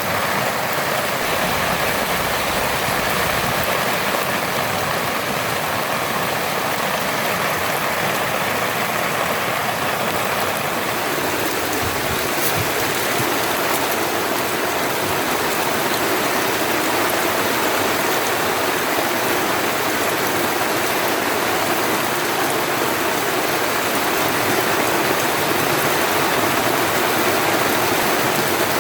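Steady heavy rain, an even rushing hiss of falling water.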